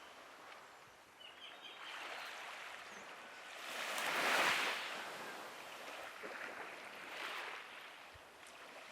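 Small waves washing onto a beach, a soft hiss that swells and falls, loudest about four seconds in and again a little after seven seconds.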